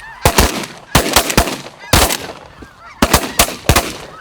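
A rapid volley of about nine shotgun shots from several hunters firing at once, in uneven bunches over about three and a half seconds, with a flock of snow geese honking underneath.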